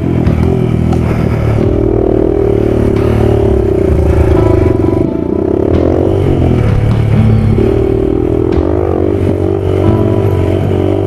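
2013 Yamaha WR250F's 250cc single-cylinder four-stroke engine being ridden hard on a dirt track. The revs rise and fall as the throttle opens and closes and the gears change.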